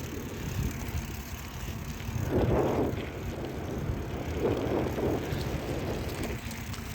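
Bicycle riding along a dirt walking trail: a steady rumble of tyres and frame with wind on the microphone, swelling louder twice, a couple of seconds in and around five seconds in.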